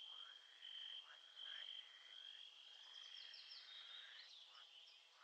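Faint nature ambience: a steady high-pitched trill with birds chirping and calling over it.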